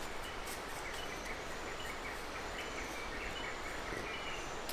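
Insects chirping faintly in short high calls over a steady rushing background noise.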